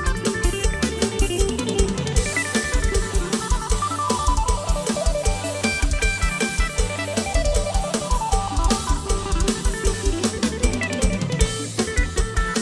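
Guitar playing a melody over a drum-kit beat with bass, with quick single-note runs that move up and down.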